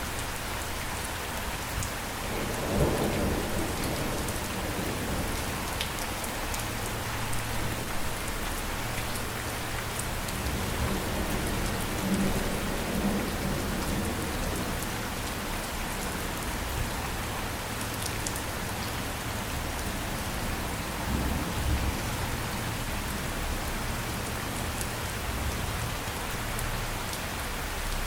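Steady rain falling, with low rumbles of thunder rolling in about three times.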